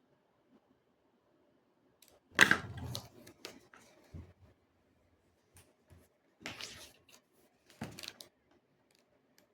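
A few clusters of short clattering knocks and clicks from objects being handled, the loudest about two and a half seconds in, with more about six and a half and eight seconds in, over a faint low room hum.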